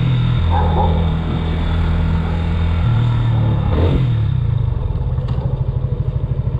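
Yamaha Fazer 250's single-cylinder engine heard from the rider's seat as the bike slows down. The engine note drops off the throttle, steps up again about three seconds in, then sinks into an even pulsing beat near idle.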